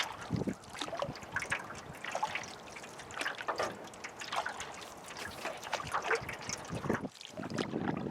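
River water trickling and splashing around an aluminum canoe as it is paddled, in short irregular splashes and drips.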